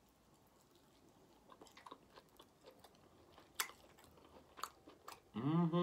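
Close-miked mouth sounds of a man eating barbecue ribs: scattered chewing clicks and lip smacks starting about a second and a half in. Near the end comes a short hummed voice sound.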